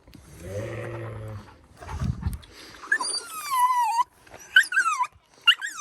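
A dog whining and yelping in high, falling cries, several in a row from about three seconds in, straining to get at the sheep. Near the start a ewe gives one low, steady bleat.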